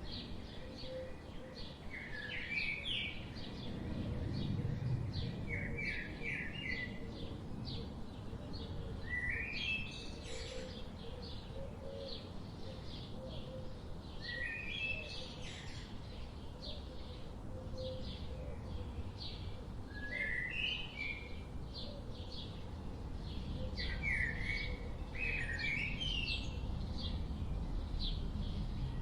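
Forest birdsong: one bird repeats a short rising phrase every few seconds while quick high chirps run on steadily behind it, over a low rumble of background noise.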